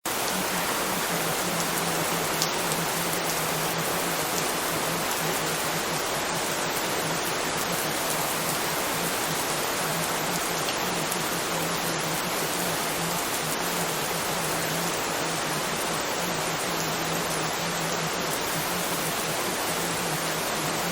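Steady, even rain sound with a few faint drop-like ticks in the first few seconds. A low hum comes and goes faintly underneath.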